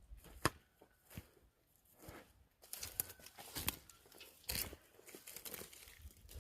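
Faint, irregular crunching and rustling, a scatter of short scrapes and clicks with no steady rhythm.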